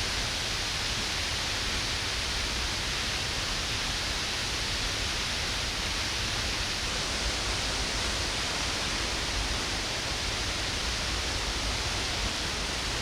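Steady, even rushing of a waterfall, with no breaks or changes.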